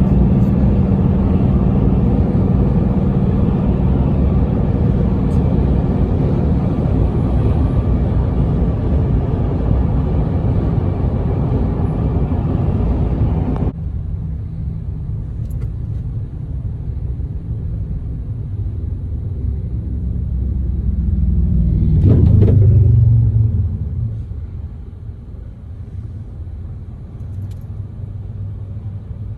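A road vehicle's engine running steadily with a low hum, cut off abruptly about 14 seconds in; then lower road rumble, with one vehicle passing loudly about 22 seconds in.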